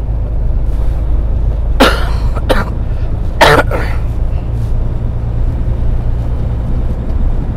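A person coughs twice, about a second and a half apart, each cough with a smaller follow-up, over the steady low drone of a semi truck's diesel engine heard from inside the cab.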